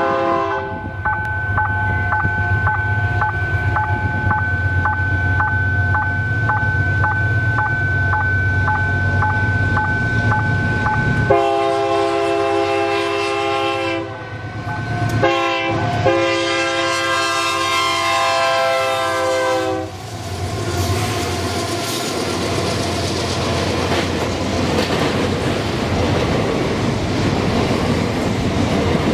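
Freight train at a level crossing. A pulsing warning tone rings for about the first ten seconds. The diesel locomotive's horn then sounds two long blasts with a short toot between them, and from about two-thirds of the way through the hopper wagons roll past with a steady rumble and clickety-clack of wheels on the rails.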